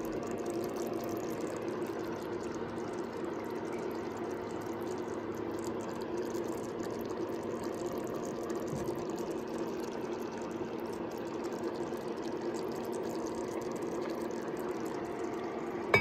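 Pot of pork adobo with potatoes simmering on the stove, a steady liquid sound.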